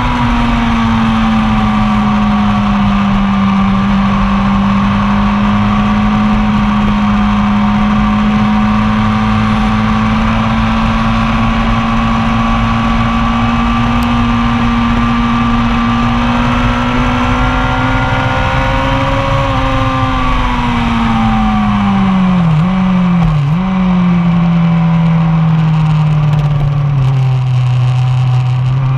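1999 Yamaha R1's inline-four engine pulling at steady high revs for a long stretch, then the revs fall away with two quick dips, likely downshifts, about three-quarters of the way in. It runs lower for a few seconds and picks up again near the end, over a constant rush of wind and road noise.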